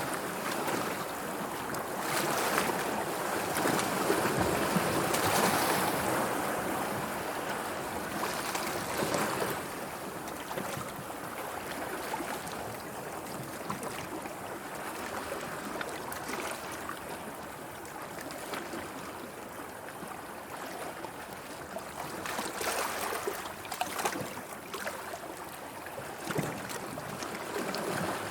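Sea waves washing and splashing in a steady rush, surging louder several times.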